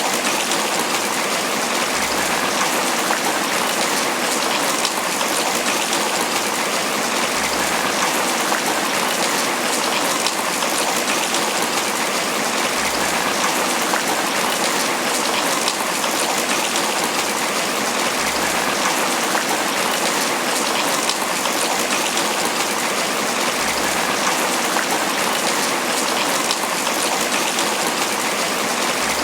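Tropical rain falling steadily on banana leaves, a dense, even patter of drops.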